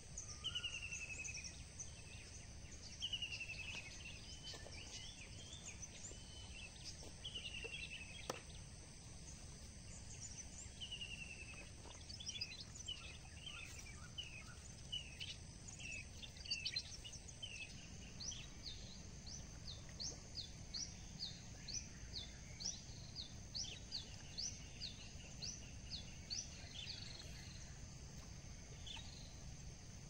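Wild birds calling: repeated short falling whistled notes in the first half, then a fast series of sharp rising chirps from a little past the middle, over a thin steady high tone and a low background rumble.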